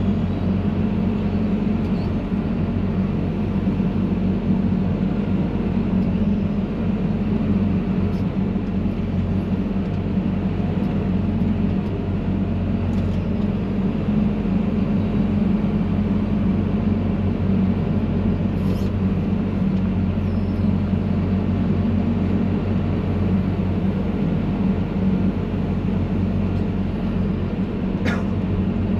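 Excavator's diesel engine running steadily, heard from inside the operator's cab, with a few faint clicks.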